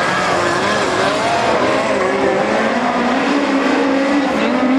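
Several midget race car engines running together, their pitches rising and falling as the throttles open and close.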